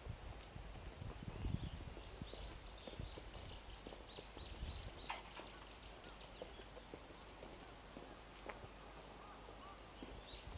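A bird calling in a quick run of short, high notes, pausing in the middle and starting again near the end, over faint footsteps and outdoor background noise.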